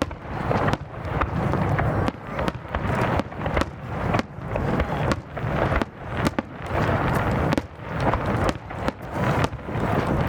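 Aerial fireworks display: shells bursting in rapid succession, a few sharp bangs every second over a continuous rumble and crackle.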